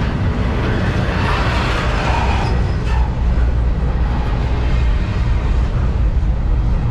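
Cars of a fast double-stack intermodal freight train rolling past: a steady, loud rumble of wheels on rail with rattling, a little brighter in the first few seconds.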